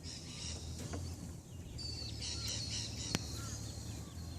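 Birds chirping and calling, with one sharp click about three seconds in, over a steady low rumble.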